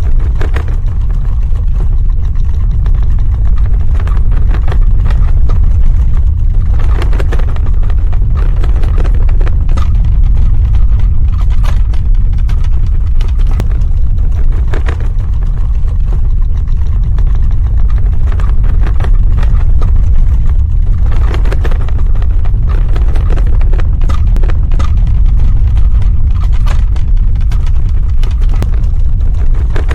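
Earthquake rumble: a loud, continuous deep rumbling, with scattered crackling and clattering over it that thickens in a few spots.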